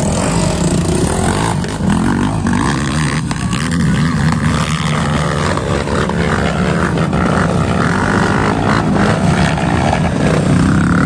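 Off-road dirt bike engine running loud and continuous, its pitch rising and falling as the throttle is worked on a hill climb.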